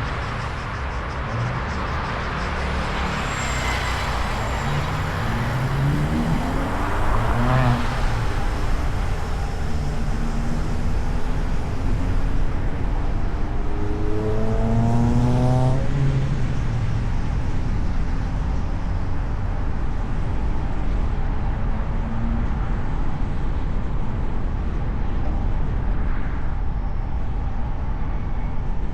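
A car driving on city streets, heard from the hood: steady engine and tyre rumble with traffic noise. Twice an engine note rises as a vehicle accelerates, about six seconds in and again about fourteen seconds in.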